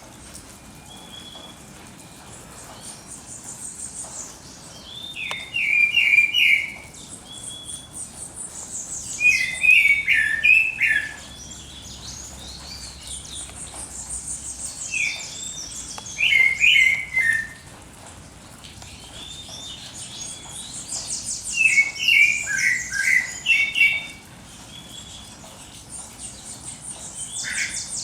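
Songbirds singing at dawn: one bird repeats a short, loud phrase about every five or six seconds, and between phrases come fast, very high trills.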